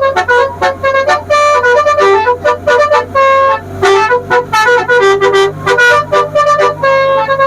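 Telolet basuri multi-tone musical horn playing a fast melody, note after note, over the steady drone of the boat's engine. The drone shifts up in pitch about four seconds in.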